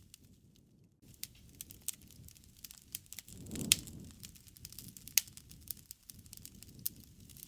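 Wood fire crackling, with scattered sharp pops of burning wood and a short low rush of flame about halfway through; the loudest pop comes just after that rush. It is nearly quiet for the first second.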